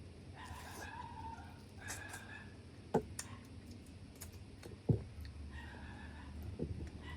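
Close-up eating sounds of mud crab being cracked and picked apart by hand: scattered sharp clicks and cracks of shell, the two loudest about three and five seconds in.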